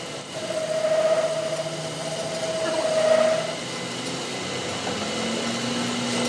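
A power tool running with a steady whine, after two sharp clicks at the start; the whine shifts to a lower tone about two-thirds of the way through.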